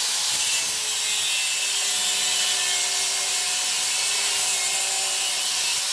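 A power tool cutting, heard as a steady high hiss with a faint held hum underneath and no separate strokes.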